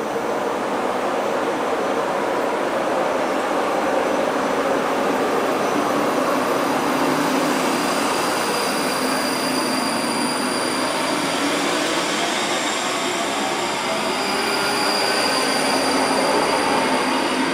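ScotRail passenger train running past along the platform at close range: a steady rush of wheel and running noise, with thin high-pitched whining tones that grow stronger about halfway through.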